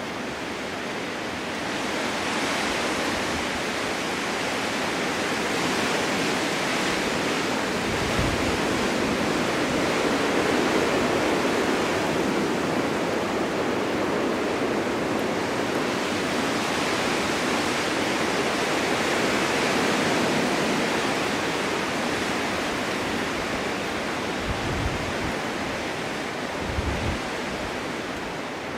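Strong winter wind rushing steadily across open ground, swelling and easing in long gusts, with a few brief low buffets on the microphone.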